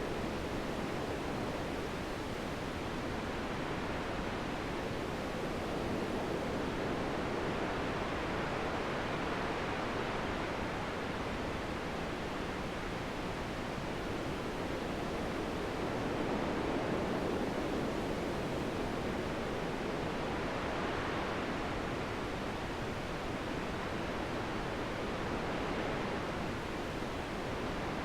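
Wind blowing steadily, a continuous rushing noise that swells and eases gently, a little stronger around the middle.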